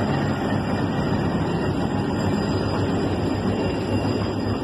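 Train rolling slowly past at close range, with a blue DF7G-C diesel locomotive among the cars: a steady rumble of wheels on rail and a low diesel engine hum.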